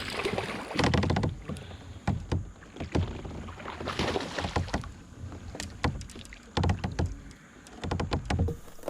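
Kayak hull sounds: irregular knocks and low thumps against the plastic hull, mixed with short bursts of water noise, as the boat is moved about on the water.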